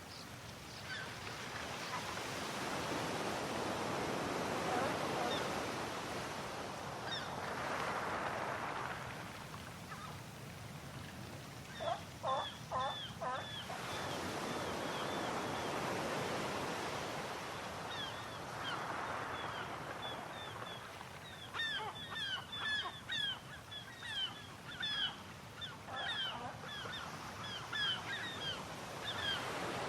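Sea waves washing in, swelling and easing every few seconds, with birds calling over them: a short burst of calls about twelve seconds in, then many quick, short calls through the last third.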